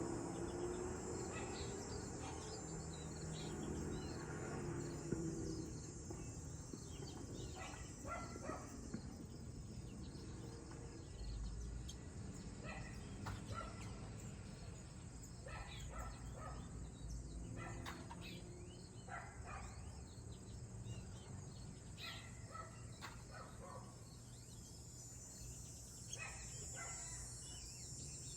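A Raza canary × American goldfinch hybrid giving short chirping phrases in scattered bursts every few seconds, over a steady low hum.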